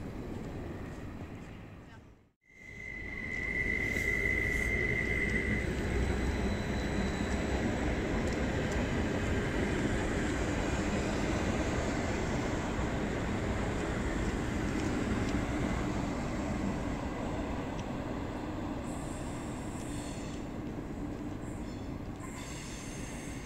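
A train running on the rails, a steady rumble of wheels and running gear. It starts with a thin high squeal that holds for about three seconds. Just before that the sound fades briefly to silence.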